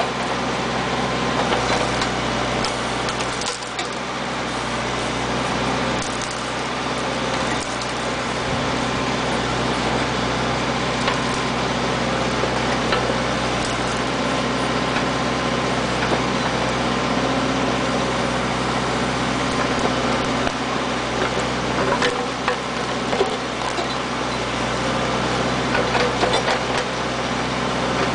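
Tractor-backhoe engine running steadily, with scattered knocks and cracks over it.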